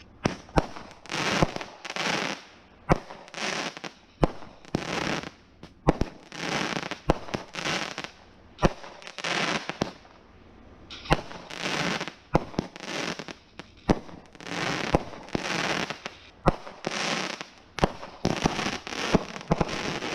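Consumer firework cake firing shot after shot, each sharp bang followed by a crackling burst, about one a second with a short lull about halfway through.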